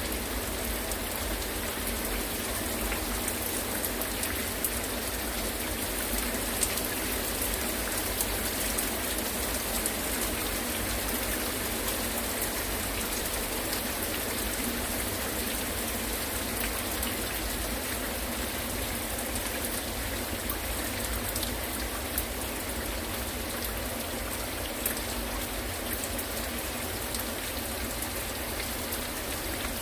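Heavy rain falling steadily, with many individual drops ticking on a hard surface close by.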